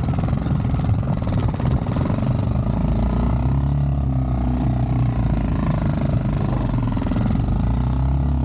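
Honda Dax-style mini motorcycle's small single-cylinder engine running steadily while riding, its pitch rising and falling slightly.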